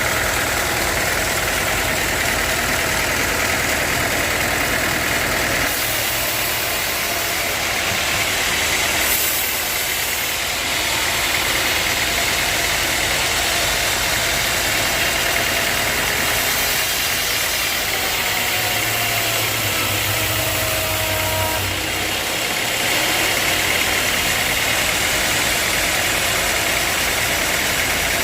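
Sawmill machinery running steadily: a continuous motor-driven mechanical noise that shifts slightly in character a few times but never stops.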